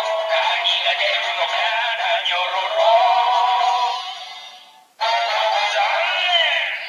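Yo-kai Watch Dream toy playing a medal's synthesized vocal song through its small speaker, thin and without bass. The song fades out about four and a half seconds in, and a new tune starts at about five seconds.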